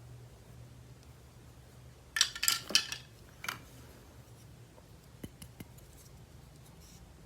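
Small hard objects clicking and clattering as they are handled: a quick cluster of sharp clicks about two seconds in, another brief clatter a second later, then a few faint taps.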